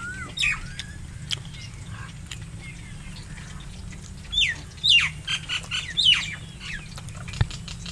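Birds calling: a few short falling chirps near the start, then a run of louder, quick falling calls from about four to six and a half seconds in, over a steady low background rumble.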